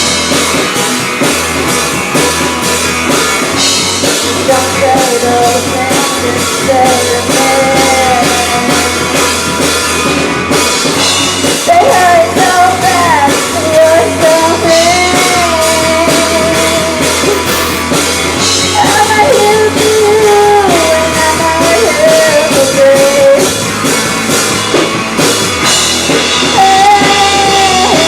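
Live rock band playing a song: drum kit, electric guitars and bass, with a singer's voice carrying the melody.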